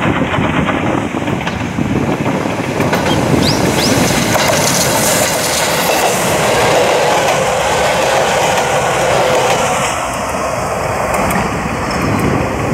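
Izuhakone Railway 3000-series electric multiple unit passing close by: the rumble of its wheels and running gear on the rails, easing off after about ten seconds as the last car goes by.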